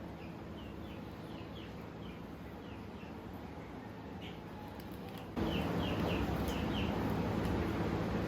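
A small bird chirping over and over, short sharp chirps about once or twice a second, over a steady background hiss. About five seconds in, the background suddenly gets louder and stays louder while the chirping goes on.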